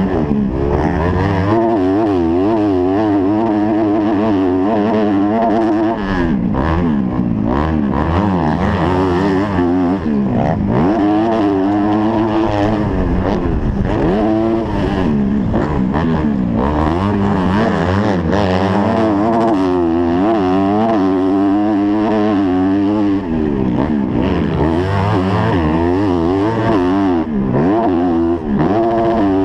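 250-class motocross bike engine, heard from the rider's helmet, revving hard and falling off over and over as the throttle is worked around the track.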